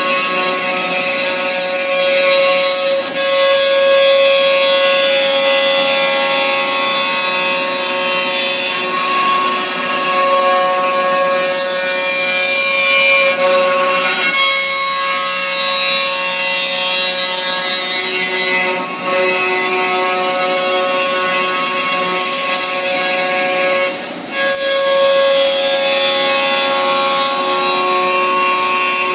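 Bacci twin-head CNC machine machining wood: spindles running with a steady whine and the hiss of cutting, broken by short dips about 19 and 24 seconds in.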